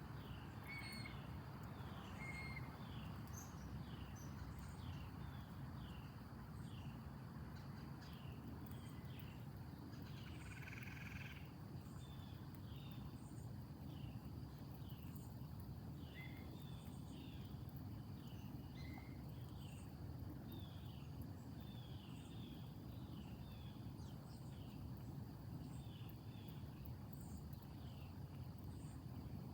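Outdoor chorus of late-summer insects: a steady high trill with short chirps repeating about once a second, a few separate higher calls, and low background rumble underneath.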